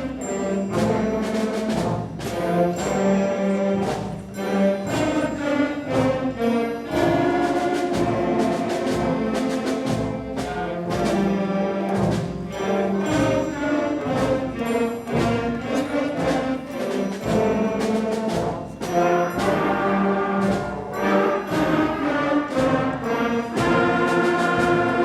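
A school concert band of 5th graders playing a piece: brass and woodwinds on sustained chords over a steady drum beat.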